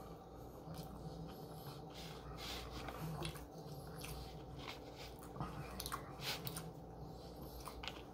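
Faint chewing of sushi rolls: soft wet mouth sounds with scattered small clicks.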